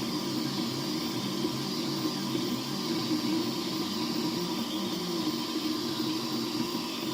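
3D printer at work: its stepper motors whine in short tones that keep changing pitch as the print head moves, over a steady cooling-fan hiss.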